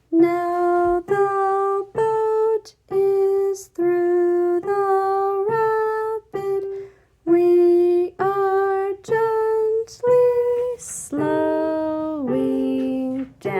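A woman singing the melody in short, separate notes, about one or two a second, with notes sliding downward near the end. Piano plays along.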